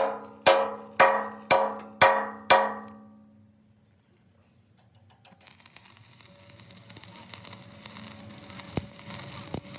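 Hammer blows on steel, six ringing strikes about two a second, each clanging and dying away. After a short lull a steady hiss builds up through the second half.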